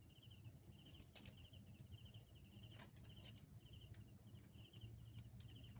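Faint outdoor ambience: an insect calling in short, rapid chirps repeated about twice a second, with a few scattered faint clicks.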